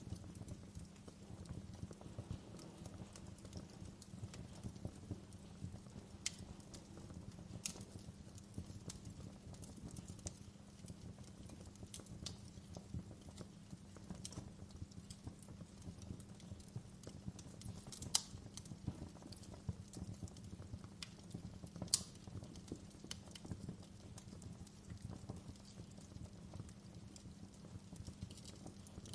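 Wood fire crackling in a fireplace: dense, irregular small crackles over a low, steady rumble of the flames. Now and then a louder, sharper pop stands out, the loudest about 18 and 22 seconds in.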